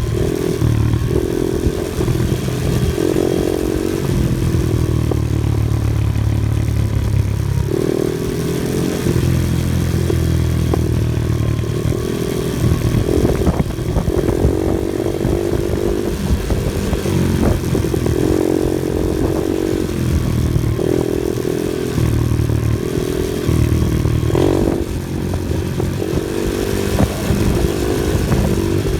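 Off-road vehicle engine running under changing throttle, its pitch rising and falling over and over, with scattered knocks and clatter as it drives over rough ground.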